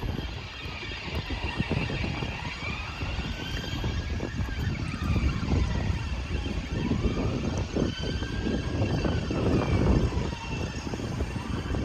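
Wind buffeting the microphone with a steady low rumble, over a faint tone that slowly rises and falls again and again.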